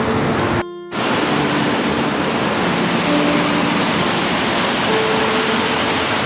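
Steady, dense rain hiss with soft, slow held music notes beneath it. The sound drops out for a split second just under a second in, like an edit or loop splice.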